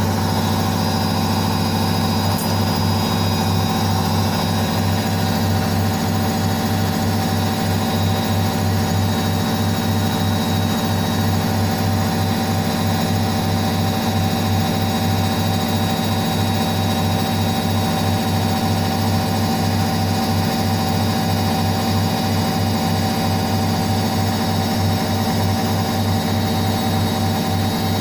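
Indesit IWSC5085 front-loading washing machine spinning at a steady high speed. The drum rumbles over a constant motor whine.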